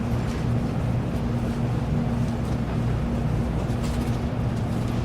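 Shinkansen train running at speed, heard inside the passenger cabin: a steady low hum and rumble with a faint hiss.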